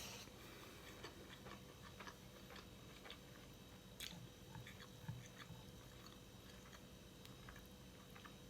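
A person chewing food close to the microphone: faint, scattered wet mouth clicks and smacks, with a couple of slightly louder ones about halfway through.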